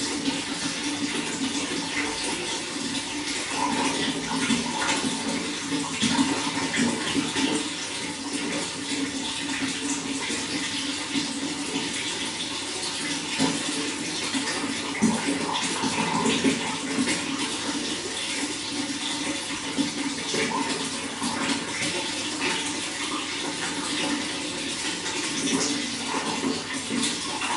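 Running water, a steady continuous flow with small splashes.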